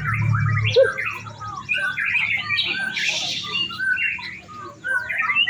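Several white-rumped shamas singing at once, a dense, overlapping chorus of rapid whistles, chirps and harsh notes that never pauses, as the birds compete in song.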